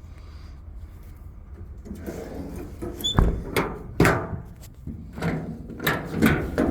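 Metal compartment doors and latches on a truck's service body being opened and shut: a series of sharp clunks and knocks with some rattling, starting about two seconds in.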